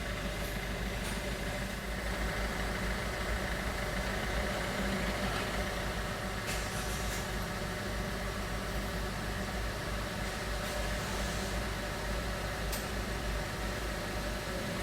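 Vehicle engines running in a steady low rumble, with a few faint clicks.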